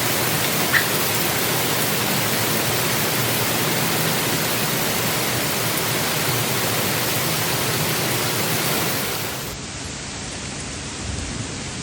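Steady, even hiss of a heavy downpour. A little over nine seconds in it drops to a quieter, duller rain sound.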